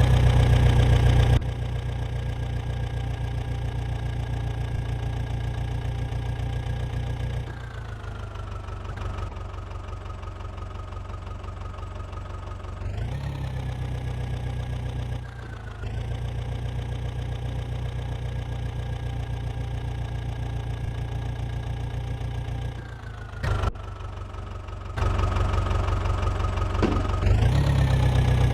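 Diesel engine of digging and loading machinery running steadily, its speed dropping back and picking up again several times as the work load changes.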